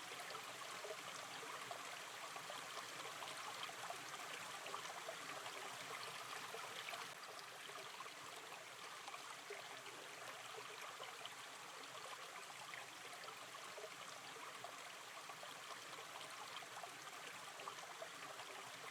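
Gentle river stream flowing over stones, a steady wash of water with fine trickling and gurgling detail. It drops slightly in level about seven seconds in.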